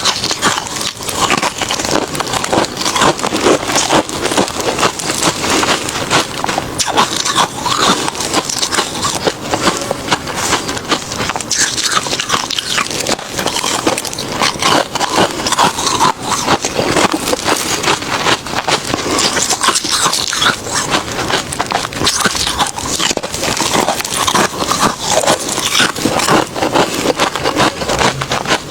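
A person chewing refrozen crushed ice, a continuous run of crisp crunches without pauses.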